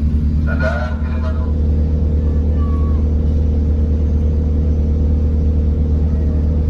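Steady, loud engine drone, a constant low hum with an even higher tone above it. A voice is heard briefly about half a second in.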